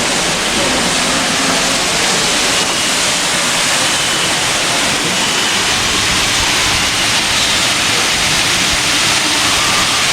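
Steady, loud rush of falling water and spray, even throughout, with a few faint high chirps now and then.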